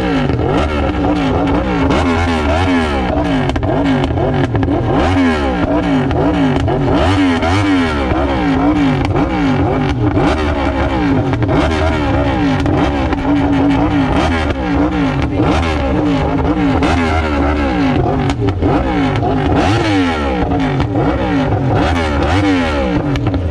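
Yamaha R1 inline-four sport bike with an SC-Project aftermarket exhaust, free-revved while standing: the engine is blipped again and again, pitch sweeping up and dropping back roughly once or twice a second, over a steady underlying drone.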